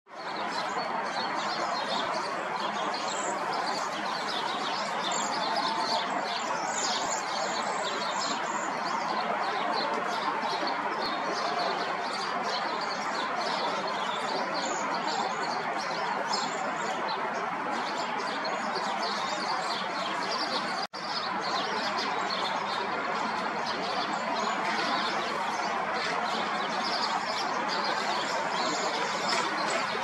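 A flock of cedar waxwings giving many short, thin, high-pitched calls over a steady background hiss. The sound drops out briefly once, about two-thirds of the way through.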